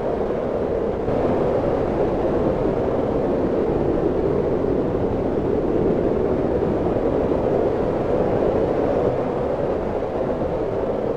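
Steady wind blowing, a dense rushing noise that swells slightly about a second in and eases a little near the end.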